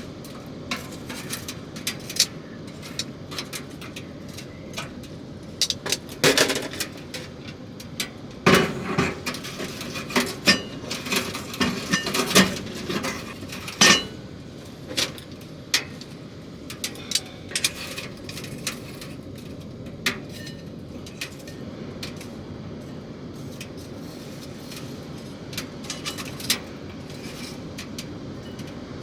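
Cookware and utensils handled during cooking: scattered clinks and knocks of pots, dishes and cutlery, busiest in the middle, over a steady background hiss.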